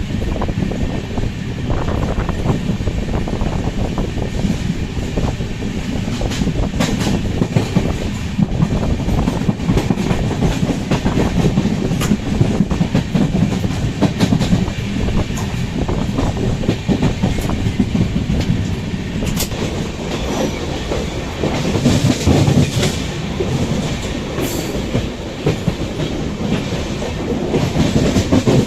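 Express passenger train running at speed: a steady rumble of wheels on rails, with clickety-clack and scattered sharp clicks over the rail joints.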